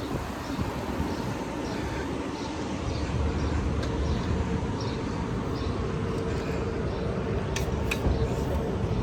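Steady city street noise: a low rumble of passing vehicle traffic that grows a little louder about three seconds in, with a couple of sharp clicks near the end.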